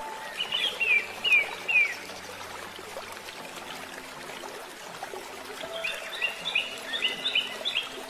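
A bird singing two short phrases of quick, falling chirps, one near the start and one about six seconds in, over a faint steady background.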